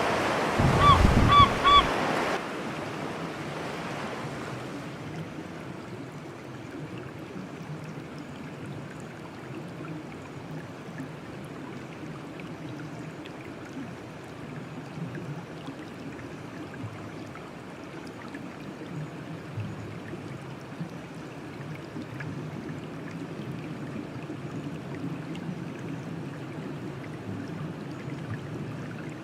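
A few loud, short pitched animal calls in the first two seconds, then a steady low rush of running water for the rest.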